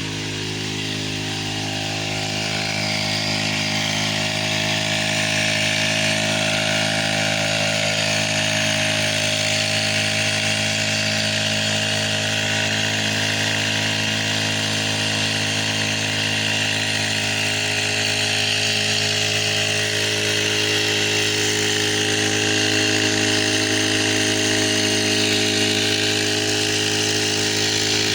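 Chainsaw engine running at a steady high speed, growing louder over the first few seconds and then holding an even pitch.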